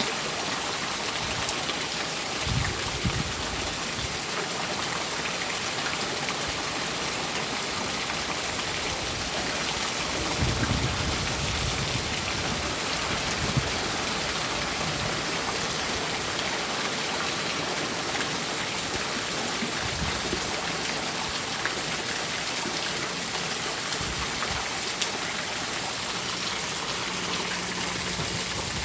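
Steady heavy rainfall pattering on surfaces, with brief low rumbles of distant thunder about three seconds in and again about eleven seconds in.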